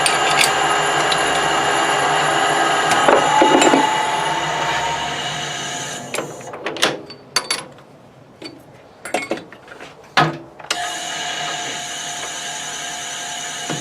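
A workshop machine tool's electric motor hums steadily, then winds down and stops about four to five seconds in. A few seconds of scattered clicks and knocks from parts being handled follow, and the machine starts up again and runs steadily near the end.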